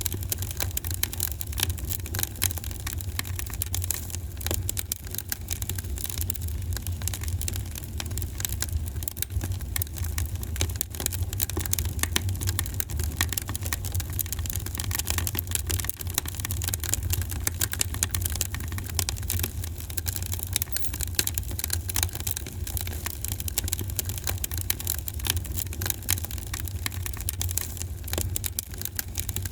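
Wood fire in a fireplace crackling steadily, with many small irregular pops and snaps over a steady low rumble.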